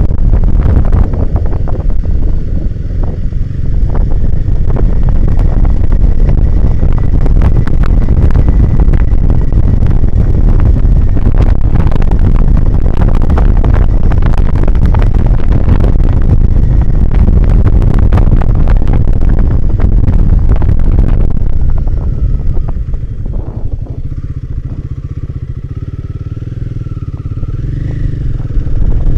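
Royal Enfield Himalayan 450's single-cylinder engine running on a rough off-road trail, buried in heavy wind buffeting on the microphone and clatter from bumps. About 22 seconds in the wind drops and the engine note comes through plainly, its pitch rising, until the wind noise returns near the end.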